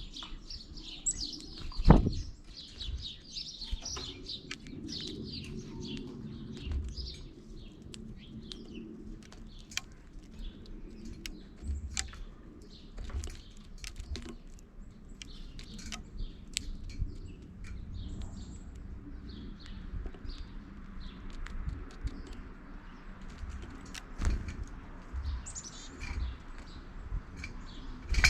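Small songbirds chirping and twittering in quick runs, thickest in the first few seconds, with scattered sharp clicks, a loud knock about two seconds in, and an intermittent low rumble.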